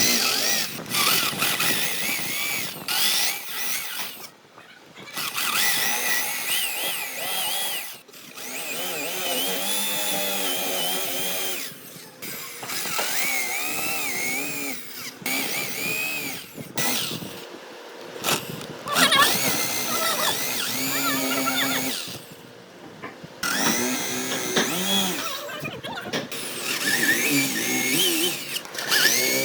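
Handheld power tool working wood in repeated bursts. Its whine rises and falls in pitch as it bites and eases off, and it stops briefly several times.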